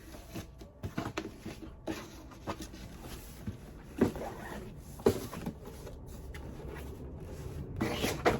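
Packaging being opened and handled: scattered crinkles and taps, with two sharp knocks about four and five seconds in and a brief rustle near the end.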